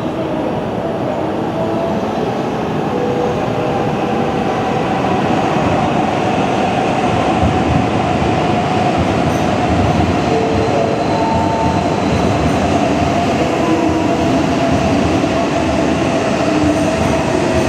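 Tohoku Shinkansen train moving past along the platform: a steady, loud rumble of wheels and running gear with faint wavering squeal tones, growing slightly louder over the first few seconds.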